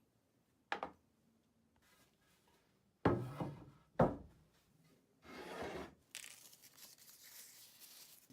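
Several sharp knocks and thuds of objects being handled and set down, the loudest two about a second apart near the middle, then a steady hiss from about six seconds in.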